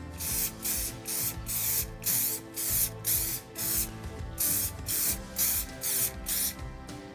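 Aerosol can of Muc-Off Fabric Protect spraying in short, quick hisses, about two a second, over background music.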